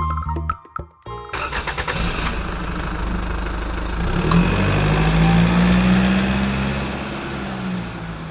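Music cuts off about a second in, and an engine starts with a rapid clatter. It then runs and revs up, its pitch rising, before easing back and fading near the end.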